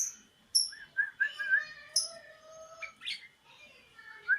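Sooty-headed bulbul (kutilang) singing: short warbled phrases, with brief high notes that drop in pitch at intervals.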